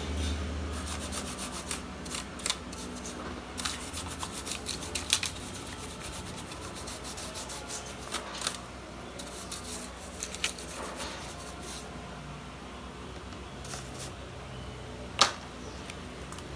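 Small sharp clicks, scratches and rubbing from laptop parts being handled and worked on during a keyboard replacement. The clicks come thickly at first and thin out, with one louder sharp click near the end.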